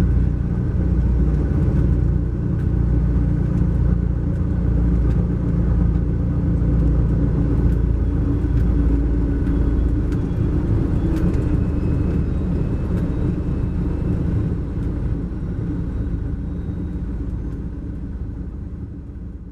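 2012 MCI J4500 coach underway, heard from inside the cabin: its Cummins ISX12 diesel and road noise make a steady low rumble with a few light rattles. The low rumble eases after about ten seconds, and the sound fades out near the end.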